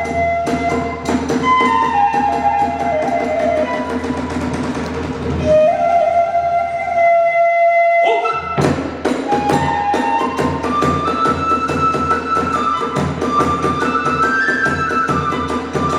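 Kagura hayashi music: a bamboo transverse flute plays a stepping melody over taiko drums and small hand cymbals striking in rhythm. About seven seconds in the percussion drops out while the flute holds a long note, then drums and cymbals come back in.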